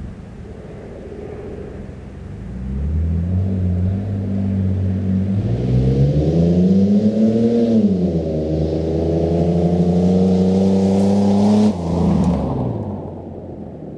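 Dodge car accelerating hard past at close range. The engine revs climb, drop at a gear change about halfway through, and climb again. Near the end the sound cuts off sharply as the car goes by, then fades with falling pitch.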